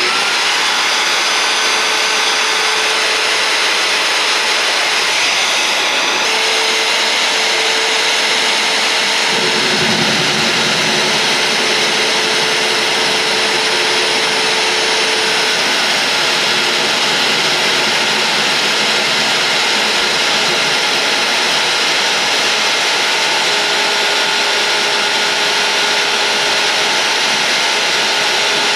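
Magnetic-base drill running a 13/16 inch annular cutter through steel plate: a motor whine that rises just before, then a loud, steady cutting noise.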